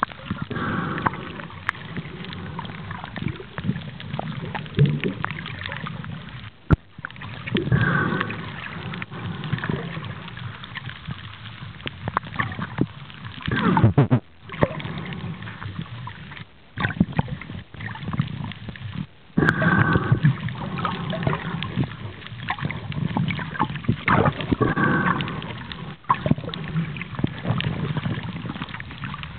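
Water sloshing and gurgling around the camera as a snorkeler swims, muffled, with a swell about every five or six seconds and a few brief dropouts.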